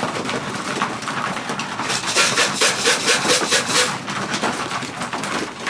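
Pigeons in a loft: a steady rustle with a quick rhythmic run of strokes, about six or seven a second, for roughly two seconds in the middle, and a few short low notes at the same time.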